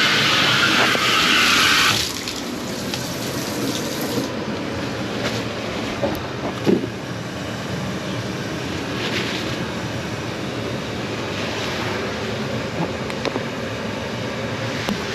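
Water running hard from a tap, shut off about two seconds in. After that a quieter steady background noise remains, with a few light knocks.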